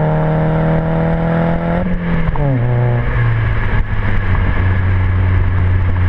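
Ford Focus 2.0 Ti-VCT four-cylinder through a custom stainless catback exhaust with a Magnaflow resonator and a Jones Full Boar muffler, driving under steady throttle. About two seconds in the note drops, falls in pitch and settles into a lower steady drone, as after an upshift.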